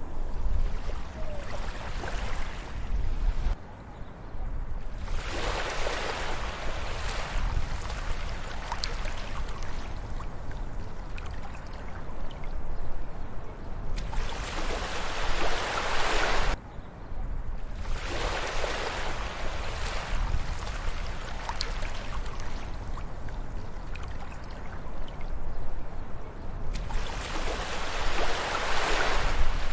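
Ocean waves breaking and washing up on a beach: four big surges of surf over a constant low rumble. Two of the washes cut off abruptly, about 3.5 s in and about 16.5 s in.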